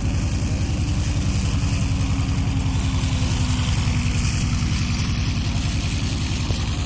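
Radio-controlled model aircraft engine running steadily, with a fast, even low pulsing.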